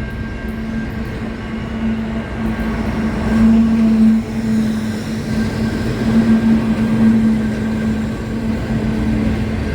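Train running on the rails: a steady low rumble with a continuous mechanical hum, swelling a little in the middle.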